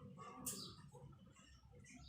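Alexandrine parrot giving a single short, sharp chirp about half a second in, over a low background hum.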